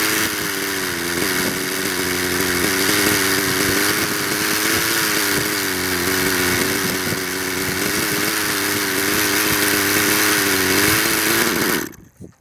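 Hirobo Sceadu RC helicopter's model engine and rotors running in flight, a steady buzzing drone whose pitch wavers slightly up and down, with a loud hiss of rotor wash over it. The sound cuts off suddenly near the end.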